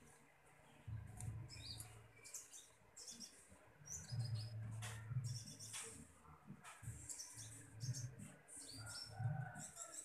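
Caged konin (kolibri ninja) giving many short, high, thin chirps and twitters, with a couple of sharp clicks midway and a low rumble underneath.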